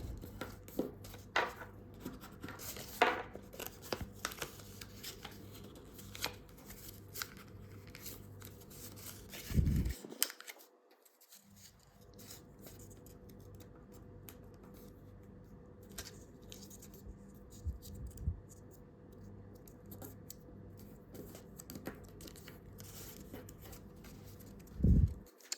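A sheet of A4 paper being folded and creased by hand: intermittent rustling, crinkling and scraping strokes, with a few louder rustles as it is handled, and a brief gap about ten seconds in.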